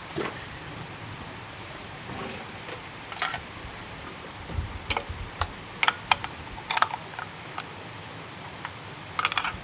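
Scattered short clicks and clacks from a bolt-action rifle and its cartridges being handled, with a few quick clicks close together about five seconds in and again near the end; no shot is fired.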